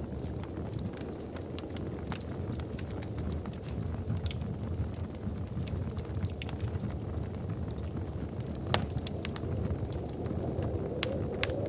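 Wood fire crackling in a fireplace: a steady low rumble of flames with irregular sharp pops and snaps, one louder pop near the nine-second mark.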